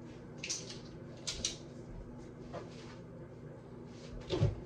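A few short, sharp knocks and scuffs in a quiet room: one about half a second in, a quick pair about a second later, a faint one after that, then a louder thump with a low boom near the end.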